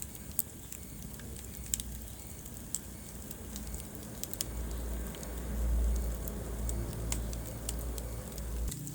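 Wood fire in a fireplace crackling, with scattered sharp pops a second or so apart over a low rumble of burning that swells about five to seven seconds in.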